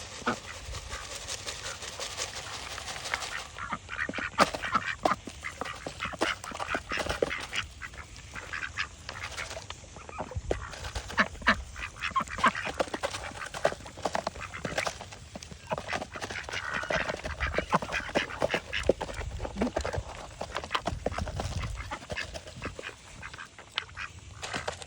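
A group of ducks quacking and calling over one another in short, irregular calls while being fed worms.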